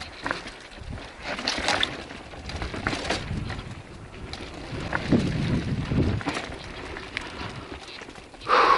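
Mountain bike riding over a rough dirt trail: tyres rumbling and crunching over the ground, scattered rattles and knocks over bumps, and wind on the microphone. A louder jolt with a short tone in it near the end.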